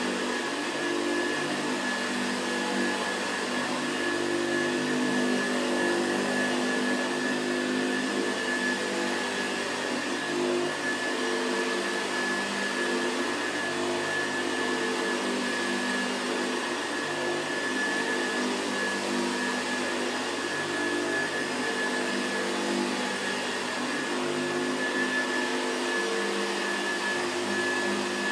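Hoover Senior 638 upright vacuum cleaner from the late 1950s, fitted with a new brushroll, running steadily: an even motor hum with a thin high whine over it.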